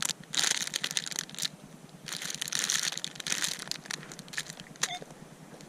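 Hands scraping and crinkling through dirt and crumpled debris in a freshly dug hole, in two rough stretches, then a few clicks and a short electronic beep about five seconds in.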